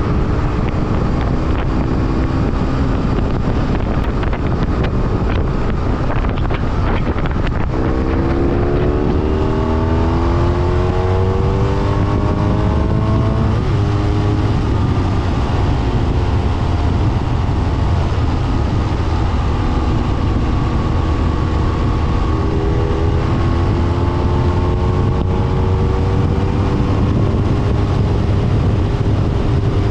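BMW F800R motorcycle's parallel-twin engine under way with heavy wind rush on the microphone. The engine note climbs steadily from about eight seconds in, breaks at a gear change, settles to a steady cruise, then climbs again near the end.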